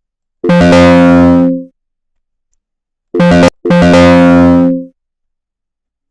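A computer's electronic alert chime sounding three times: a steady, fixed-pitch tone of about a second, then a short one and another of about a second, much louder than the narration.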